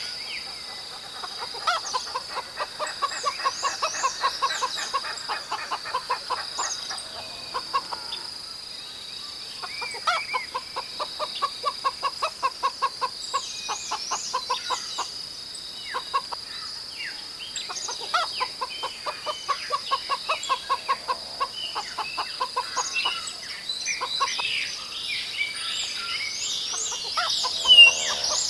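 Chickens clucking, in repeated runs of quick, even clucks several seconds long, with short high chirping calls scattered over a steady high-pitched background.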